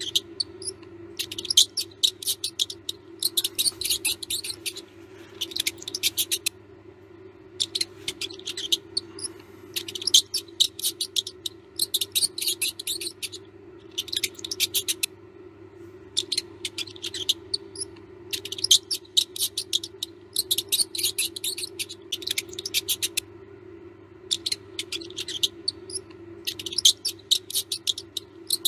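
Mouse sounds: repeated bursts of rapid, high clicking squeaks, each about a second long, with short gaps between them, over a steady low hum.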